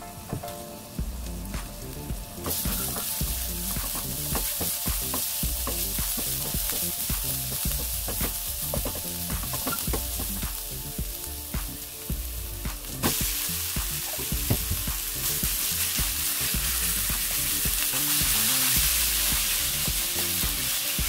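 Minced garlic and ginger sizzling in oil in a nonstick wok, with light scraping and tapping strokes of a silicone spatula as they are stirred. About thirteen seconds in the sizzle grows louder, and by the end pieces of pork are frying and being stirred.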